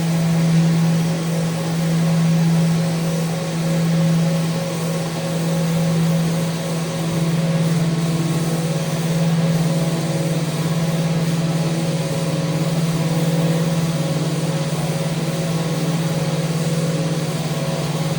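Electric power sander running steadily against a wooden handrail. Its loudness swells and dips every couple of seconds in the first half, then holds steady.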